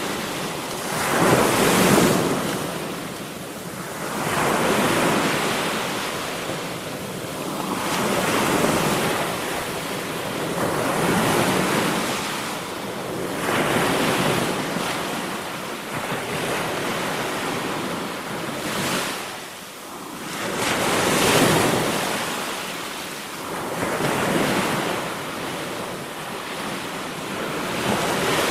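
Sea waves breaking and washing onto a shore in slow, regular swells, one about every two to four seconds.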